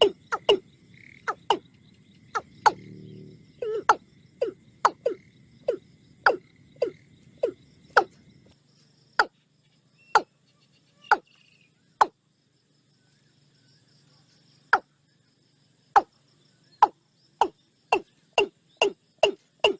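A string of short, sharp knocking calls, each dropping quickly in pitch, about two a second. They thin out to a few widely spaced calls in the middle and come quickly again near the end.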